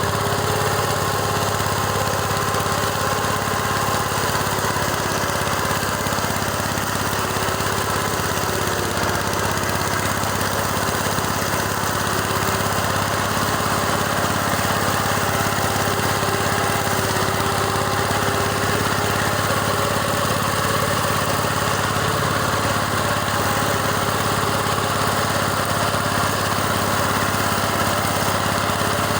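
Tractor engine running steadily under load while it drives a rotary mower with a 1.10 m cut through tall grass; the mowing is hard on the engine.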